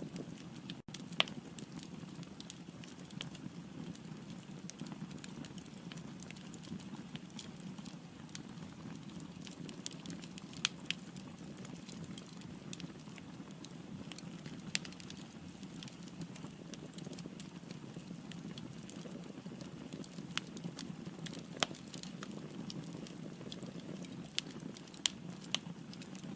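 Firewood burning in a fireplace: a steady low rush of flame with sharp, irregular crackles and pops, a few of them much louder than the rest.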